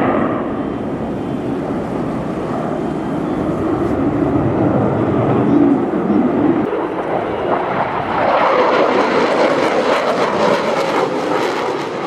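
Airplane engine of an aerobatic display aircraft overhead, its pitch and tone shifting as it manoeuvres. It grows brighter and louder about two-thirds of the way through.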